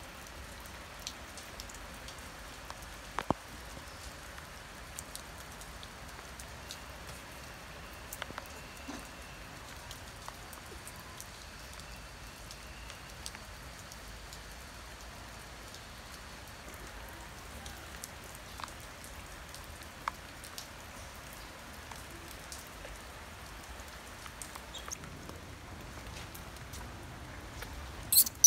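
Light rain pattering steadily, with scattered ticks of drops. A short, loud, high squeak comes near the end.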